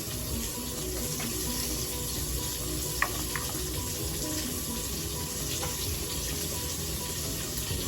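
Chopped bacon and garlic frying in a pot, a steady sizzle with a few faint pops.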